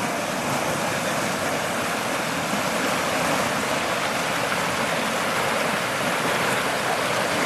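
Steady rushing of water, an even noise without breaks or distinct splashes.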